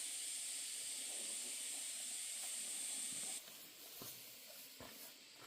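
A steady high-pitched hiss that cuts off suddenly about three and a half seconds in, leaving a quieter background with a few soft clicks.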